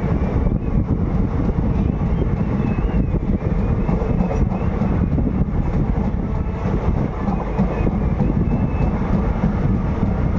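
Passenger coach of an express train running at speed, heard from an open window: a steady, loud rumble of wheels on rails, with light clicks as the wheels pass rail joints.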